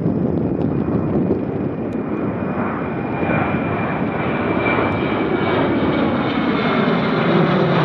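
Boeing P-8A Poseidon's twin CFM56-7B turbofans rumbling as it makes a low approach over the runway, with a high steady whine joining a few seconds in. The sound grows louder toward the end as the pitch slides down with the passing jet.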